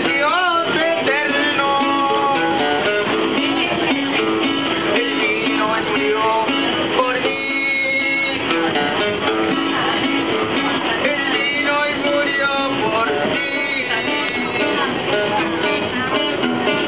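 Acoustic guitar strummed with a singer's voice over it, a live street-style song performance.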